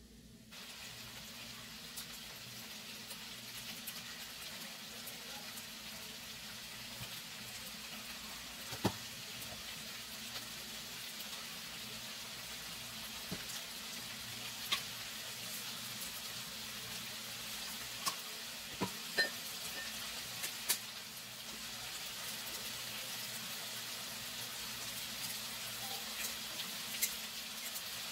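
Diced sausage, potatoes, carrots and onion sizzling in oil in a frying pan: a steady hiss that starts about half a second in, with scattered sharp pops.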